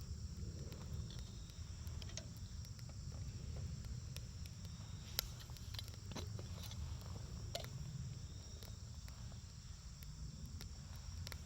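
Wood campfire crackling: scattered sharp pops and ticks, the loudest about five seconds in, over a low steady rumble.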